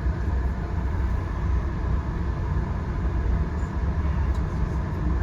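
Steady low rumble of a VIA Rail passenger train running along the track, heard from inside the coach.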